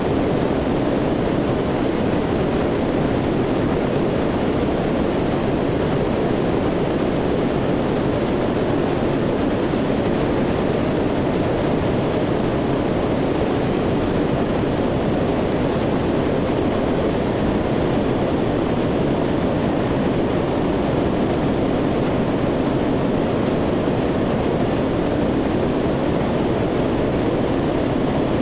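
Steady, unbroken drone of a C-130's four turboprop engines and propellers in cruise flight.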